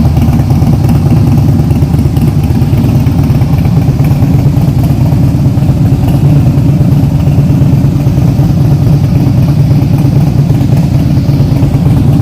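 Harley-Davidson CVO Softail Springer's Twin Cam 110B V-twin engine running steadily at a low, even speed.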